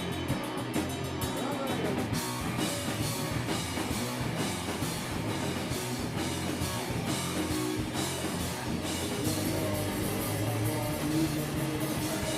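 Live rock band playing, with drum kit and guitar, at a steady beat.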